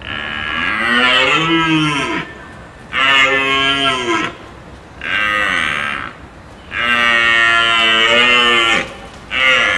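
A large hoofed animal calling with five loud, long, mooing calls. Each rises then falls in pitch, with short pauses between them.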